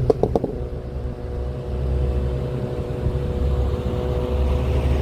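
Heavy truck engine running with a steady low drone, with three quick sharp sounds in the first half-second.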